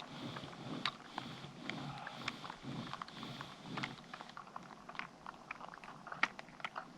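Snow crunching under a person's body as they sweep arms and legs through it to make a snow angel: a dense run of irregular crackles and soft swishes, one sharper crunch near the end.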